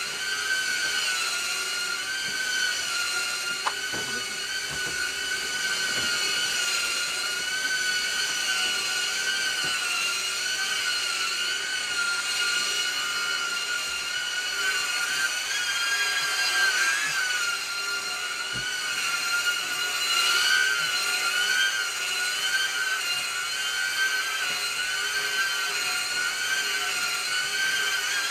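An electric motor on a carpet-cleaning machine runs continuously with a high whine whose pitch wavers slightly up and down. A few faint knocks sound over it.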